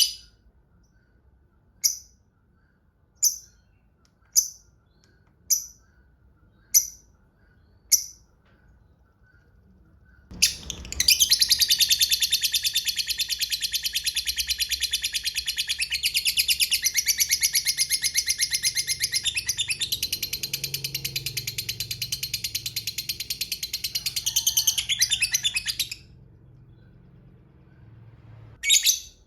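Lovebird giving single sharp 'ngetik' chirps, about one every second and a quarter. About ten seconds in it breaks into a long, rapid chattering trill, the prized 'ngekek panjang', lasting around fifteen seconds. One more chirp comes near the end.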